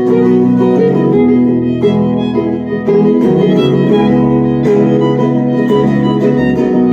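Acoustic folk band playing an instrumental break between verses: a fiddle carries the melody over plucked string accompaniment and a bass line.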